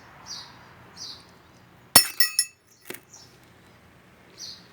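Small metal engine parts clinking against each other or against a metal surface. A sharp ringing clink comes about two seconds in, followed by a few quicker clinks and one more a moment later.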